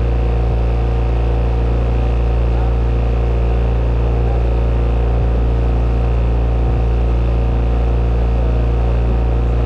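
Motorboat engine running steadily at a constant speed, a low, even drone heard from aboard the boat.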